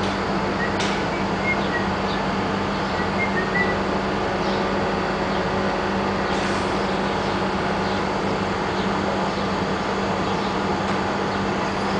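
Double-deck electric regional train standing at the platform, its equipment running with a steady hum under a constant noise, with a few faint clicks here and there.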